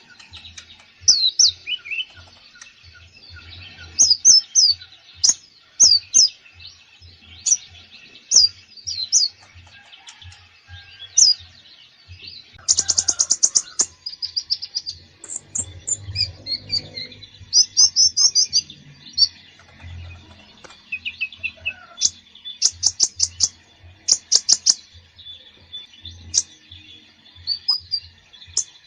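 A konin (kolibri ninja sunbird) singing busily in full, varied song: a stream of high, quick chirps and short rising and falling whistles, broken by fast rattling trills about halfway through and again a few seconds later.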